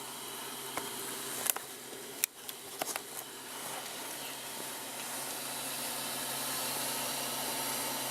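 A few light metallic clicks and knocks in the first three seconds, as swing arm bearing parts are handled and test-fitted, over a steady hiss and low hum of background noise that grows slightly louder after about four seconds.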